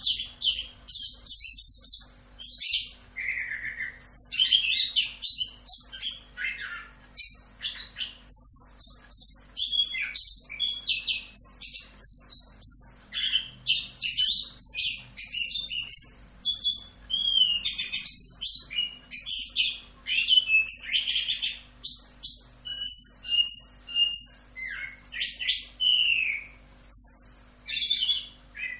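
Chestnut-capped thrush (anis kembang) singing a long, unbroken run of rapid, varied whistled phrases and trills, the rolling song (ngerol) used to train other songbirds.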